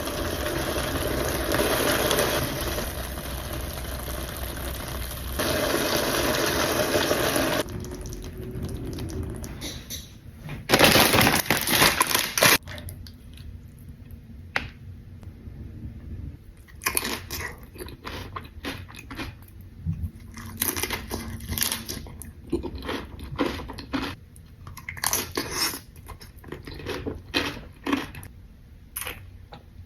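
Tortilla-chip nachos being eaten: short, irregular crunches and clicks through the second half. Before that comes a steady hiss that cuts off about seven seconds in, then a loud rustling burst around eleven seconds.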